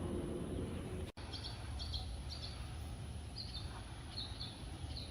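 A small bird chirping repeatedly in short, high chirps, over a steady low outdoor rumble.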